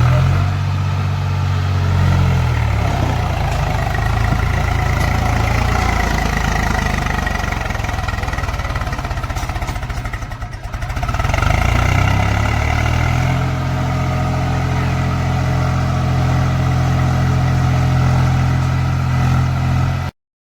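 Diesel tractor engine running under throttle: the revs fall away about two seconds in, dip briefly near the middle, then climb and hold steady. The sound cuts off abruptly near the end.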